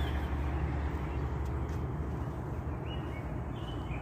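A bird giving short, high chirps at night: one right at the start, then several in quick succession in the last second or so. A steady low rumble runs under them and is the loudest sound.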